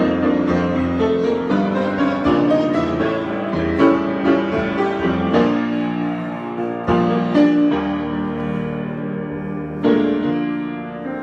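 Solo piano improvisation: slow chords and melody notes struck and left to ring, with a new chord about ten seconds in that fades away toward the end.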